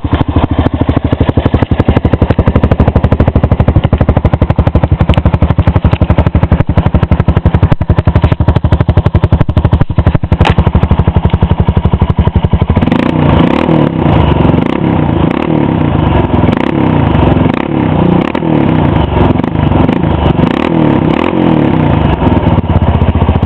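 Honda Rancher 400 ATV's single-cylinder four-stroke engine breathing through an aftermarket HMF exhaust, running with a steady rapid thump of firing pulses. About halfway through it is revved repeatedly, rising and falling over and over.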